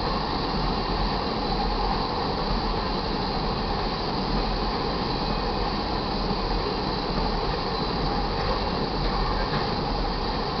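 Tank cars of a crude oil train rolling past at a crossing: a steady rumble and rush of wheels on the rails.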